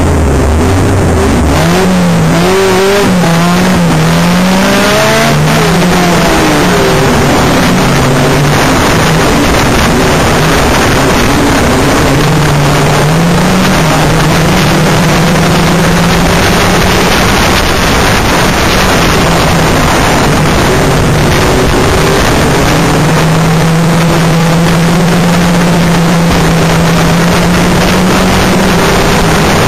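Banger racing car's engine heard from inside the car: idling low, then revving up about a second and a half in as the car pulls away, then climbing and dropping again and again through the gears and corners, loud and distorted over road and wind noise.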